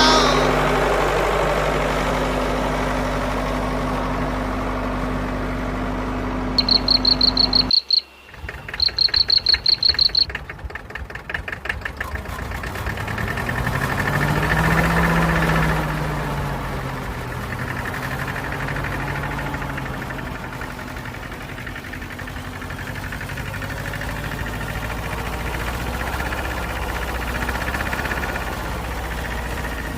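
A motor or engine running steadily, with two spells of rapid high-pitched beeping about 7 and 9 seconds in. After a brief cut, the running sound rises and falls in pitch once around the middle and then carries on steadily.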